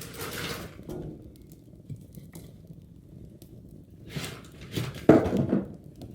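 Scraping and clattering of hard objects being handled, in a few short bursts, the loudest about five seconds in.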